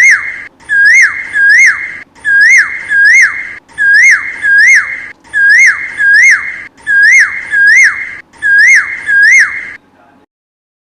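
A bird's loud whistled call, given in pairs of identical short notes that each rise and then drop sharply, the pairs repeating about every one and a half seconds and stopping just before ten seconds in.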